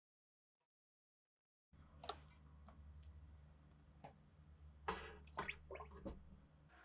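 Silence, then a few sharp clicks and knocks over a low steady hum, the sound of small parts or tools being handled.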